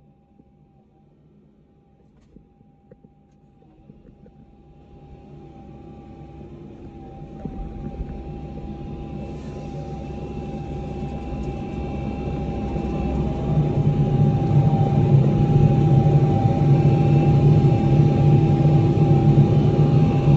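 Cat 305 mini excavator's diesel engine and hydraulics running, with a steady whine. The sound builds up gradually from near silence over about ten seconds and then holds loud.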